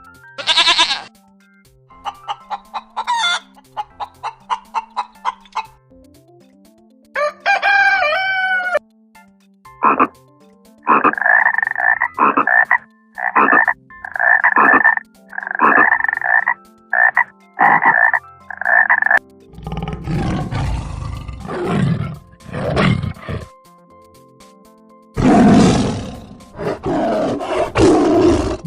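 A run of different animal calls one after another: a fast pulsing call of about four beats a second, a string of about a dozen short repeated calls, then louder rough, noisy calls in the last third.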